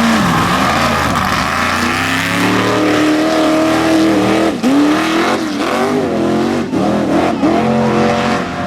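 Mega truck engine revving hard under load, its pitch dipping and climbing again several times in the second half.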